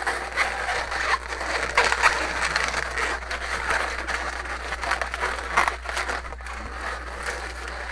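Inflated latex twisting balloons rubbing against each other as a joint is twisted and wrapped into pinch twists: an irregular scratchy rubbing noise, over a steady low hum.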